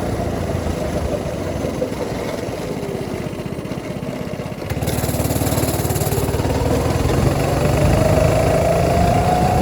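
Coleman kids' go-kart engine running while driving, easing off for the first few seconds, then picking up again about five seconds in, with its pitch rising slowly toward the end as it speeds up.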